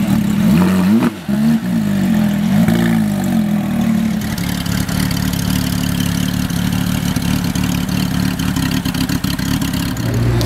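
Porsche 911 flat-six blipped several times, the pitch jumping up and falling back, for about the first four seconds. After that a Porsche 911 GT3 4.0's naturally aspirated 4.0-litre flat-six idles steadily.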